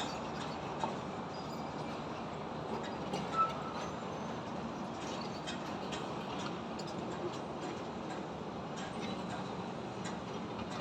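Steady traffic noise from a highway, with scattered light clicks and knocks from a building construction site; one louder knock about three and a half seconds in.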